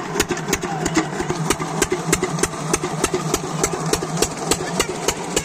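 5 HP single-cylinder diesel engine of a water pump set running steadily, its firing strokes coming as an even knock about five times a second over a constant hum.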